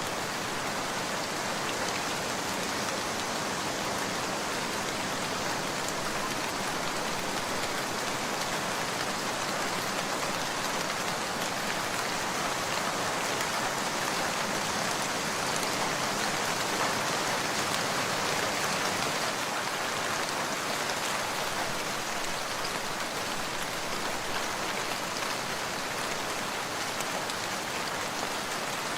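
Steady rain falling in an even, dense patter, swelling slightly about halfway through.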